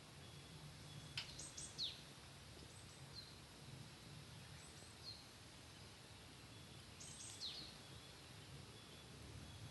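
Faint bird calls over a low, steady outdoor background: a quick run of high, downward-sweeping chirps about a second in and again around seven seconds, with a few short single chirps in between.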